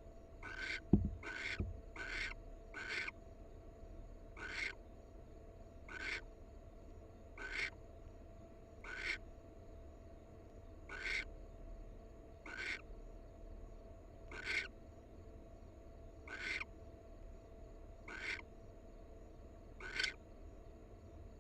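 Barn owl giving a series of short hissing screech calls, a few in quick succession and then one every second and a half to two seconds. A low thump about a second in.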